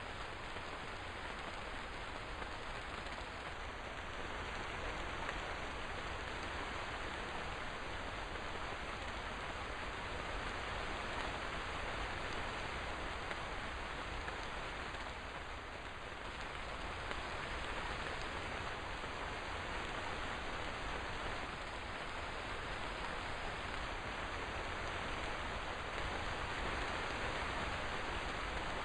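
Steady rainfall, an even hiss of rain falling without letup.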